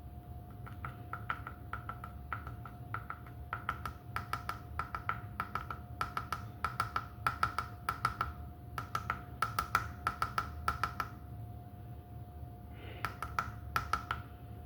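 Light, quick taps, about two or three a second, each with a short ring. They stop for a couple of seconds, then a few more follow near the end, over a faint steady hum.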